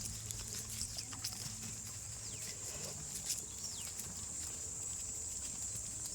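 Goats moving about in a pen, with scattered knocks and clicks, over a steady high-pitched drone and a low hum.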